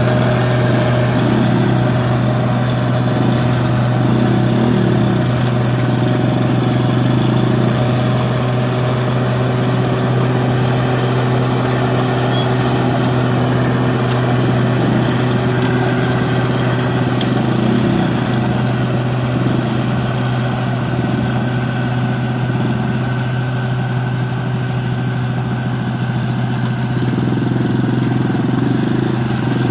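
New Holland 8060 combine harvester running while harvesting rice: a loud, steady engine drone with a strong constant low hum that wavers slightly now and then.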